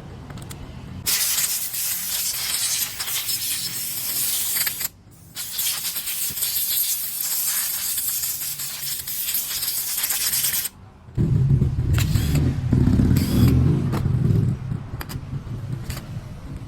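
Two long hissing blasts of spray cleaning a chainsaw carburettor, about four and five seconds long with a short break between. They are followed by a few seconds of low rumbling with knocks, then scattered clicks of parts being handled.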